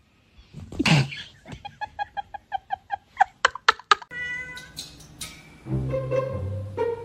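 A cat meowing, with a quick run of short, rapid calls partway through, over music.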